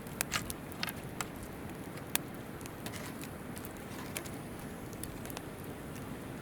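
Wood campfire crackling, with sharp pops clustered in the first second and a loud one about two seconds in, over the steady rush of a flowing river.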